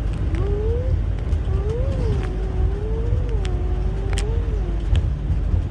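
A low, wavering hummed tone, held for about three seconds in the middle, over a steady low rumble, with a few sharp clicks near the end.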